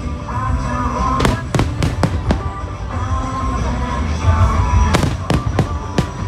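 Aerial fireworks bursting in rapid sharp bangs, about five in quick succession around a second in and four more near the end, over a continuous low rumble, with music playing along.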